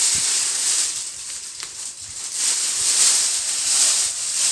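A sheet of paper rustling and crinkling as it is handled and folded into a paper airplane, an uneven papery hiss that dips for a moment and then picks up again.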